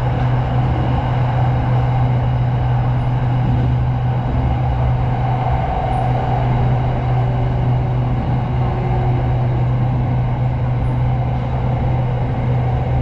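SRT Red Line commuter train running: a steady low hum with an even rushing noise over it.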